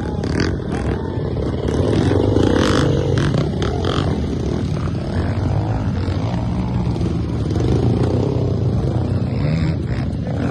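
Motorcycle engines running with wavering pitch, with a few knocks and rattles over the top.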